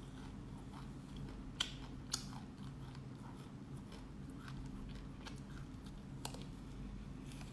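Black sesame seeds being chewed and crunched close to the microphone, with two sharp crunches about one and a half and two seconds in and a few softer ones later, over a low steady hum.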